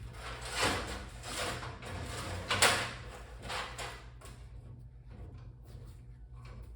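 Metal scraping and clinking as nuts are spun by hand onto a threaded-rod axle: a few short scrapes in the first three or four seconds, the loudest about two and a half seconds in, then lighter clicks.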